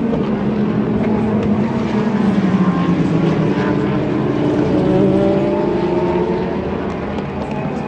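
Engines of several sports-prototype and GT race cars running at speed on the Daytona circuit as they pass, their notes overlapping. The pitch falls and rises as cars go by, loudest about halfway through, then easing off near the end.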